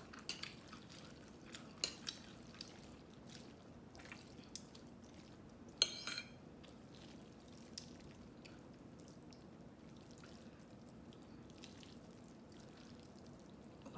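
Faint wet, sticky sounds of noodles in thick black-bean sauce being handled, with a few sharp clicks of utensils against a dish, the loudest about six seconds in.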